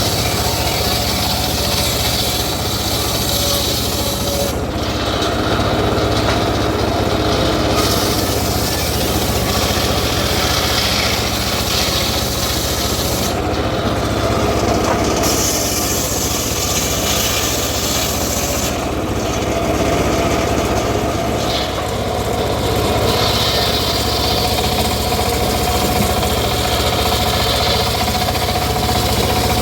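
Home-built circular sawmill cutting teak wood: a steady engine hum underneath, with the blade's high cutting noise dropping away and coming back several times as the cut goes on.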